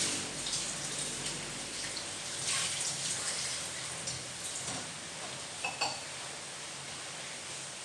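Steady rushing water noise, with a few light clinks of kitchenware about five and a half seconds in.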